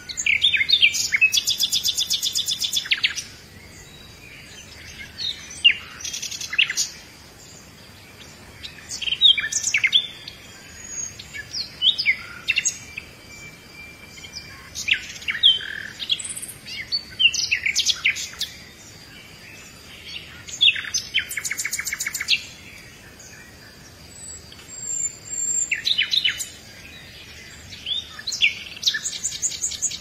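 Birdsong: a songbird singing short phrases of quick whistled sweeps and rapid trills, a new phrase every three to four seconds.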